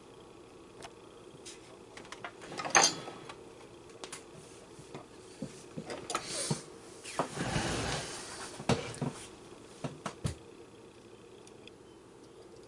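Handling noises from the unplugged, disassembled box fan motor being moved and prodded: scattered light knocks and clicks, one sharper knock about three seconds in, and a stretch of rubbing and scraping around the middle.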